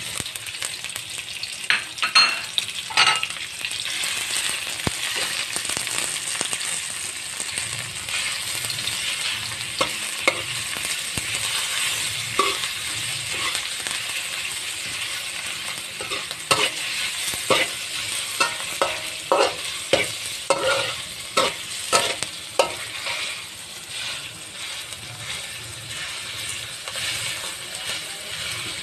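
Garlic longganisa frying in hot oil with garlic and onion in a metal wok: a steady sizzle, with a metal spoon scraping and clacking against the pan as it is stirred. The clacks come thickest from about the middle of the stretch onward.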